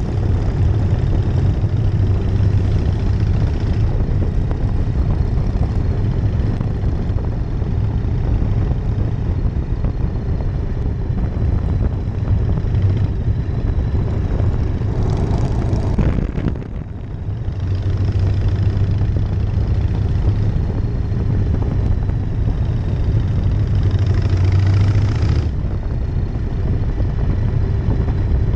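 1999 Harley-Davidson Night Train's V-twin engine running under way, mixed with wind rush. It swells louder a couple of times, and the sound drops away briefly about sixteen seconds in before building again.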